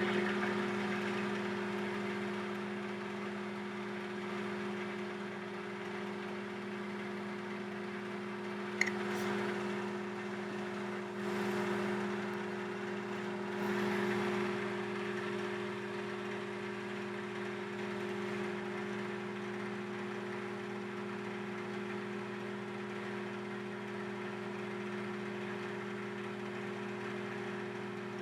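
Microwave oven running with a steady electrical hum while heating hookah coals, with a single sharp click about nine seconds in.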